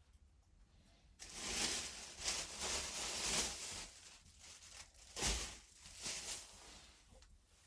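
Rustling, crinkling handling noise in a string of bursts, starting about a second in and easing off near the end, with a thump about five seconds in.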